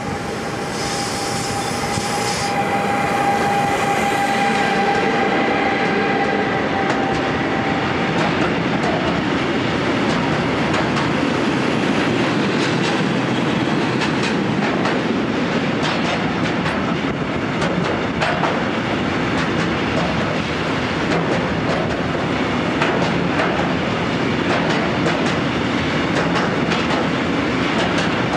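Electric-hauled freight train of tank wagons passing at speed. A steady high whine is heard as the locomotive goes by and stops about eight seconds in. After that the wagons roll past with a loud rumble and a rapid clickety-clack of wheels over rail joints.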